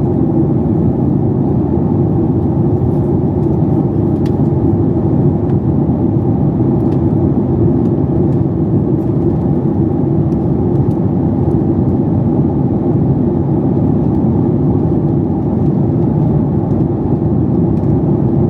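Steady cabin roar of a Boeing 737 MAX 8's engines and airflow, heard from a passenger seat inside the cabin, with no change in pitch or level.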